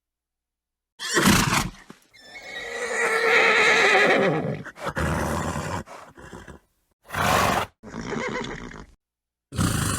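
Horse sounds: a short snort about a second in, then a long, wavering whinny lasting several seconds, followed by a few shorter snorts and breathy calls, each separated by dead silence.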